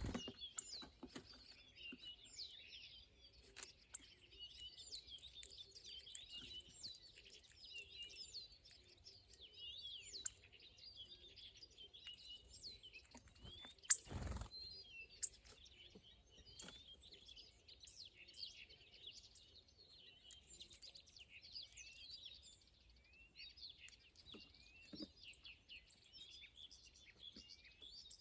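Many small birds chirping and twittering at once, a dense continuous chorus of short high chirps. A single sharp knock about halfway through.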